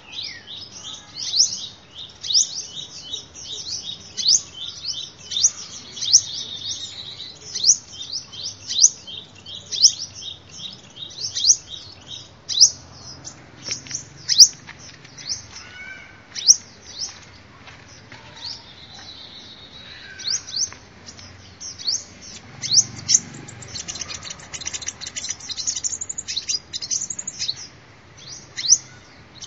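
Sunbird song: fast runs of thin, high chirps, each sliding downward, several a second, thinning out for a few seconds a little past the middle before picking up again.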